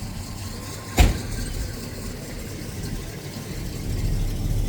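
A single sharp knock about a second in, over a low outdoor rumble.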